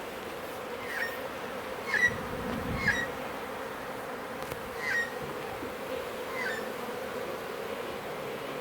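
Honeybee swarm buzzing steadily at close range, with a few short high chirps over the buzz.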